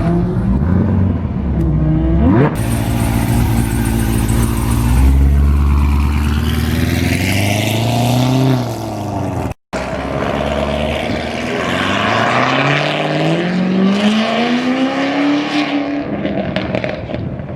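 Car engine running under throttle: its pitch holds steady, drops near the middle, and after a brief break climbs steadily as the car accelerates.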